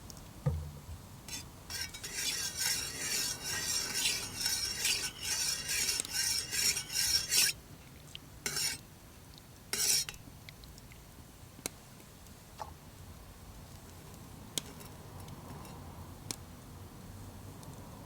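A spoon stirring milk coffee in a mug, clinking rapidly against the sides for about six seconds, then two short taps near ten seconds in; the stir blends in the milk and syrup just added. A few faint isolated ticks follow.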